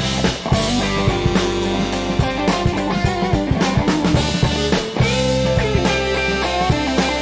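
Live band playing funky soul music: a drum kit keeping a steady groove with electric guitar and bass guitar, with a momentary break about five seconds in before the groove resumes.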